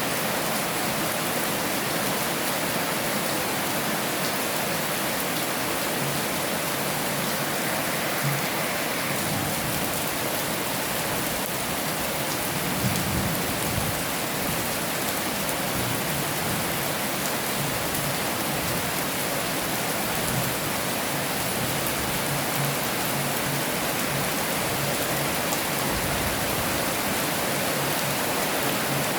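Heavy rain falling steadily, a dense even hiss, with a few brief low rumbles, the clearest about 13 seconds in.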